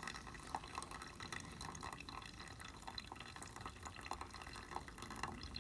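Coffee dripping through a Hario V60 paper-filter dripper into the vessel below: faint, irregular drips.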